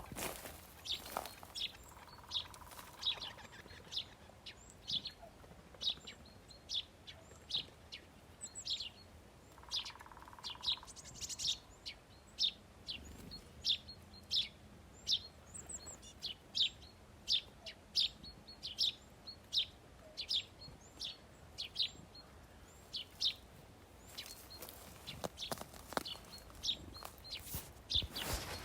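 Small birds chirping: short, high, sharp chirps repeated about one to two a second, continuing without pause.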